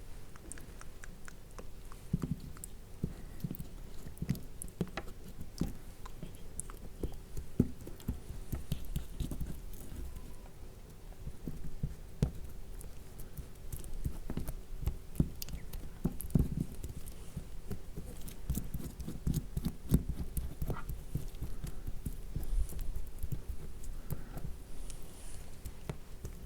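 Fingertips patting and pressing a damp sheet mask onto a mannequin's face: soft, irregular taps and small wet clicks with dull low thuds.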